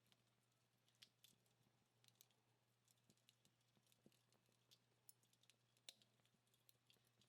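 Faint, sparse crackles and pops of a wood fire dying down, in irregular single clicks a few times a second.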